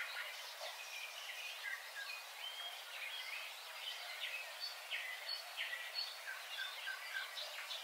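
Birds chirping and calling, many short overlapping chirps and whistles over a faint steady hiss.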